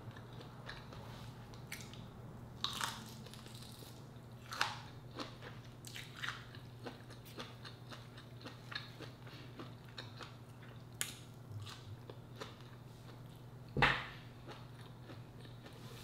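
Close-up mouth sounds of someone eating shrimp and rice by hand: chewing and biting with scattered wet smacks and clicks, and one louder smack near the end.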